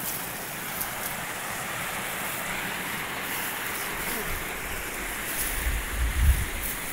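Steady rush of a waterfall's falling water, with a few low rumbling bumps near the end.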